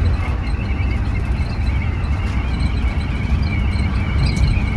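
Scania bus on the move, a steady low engine and road rumble with a faint high warbling tone above it.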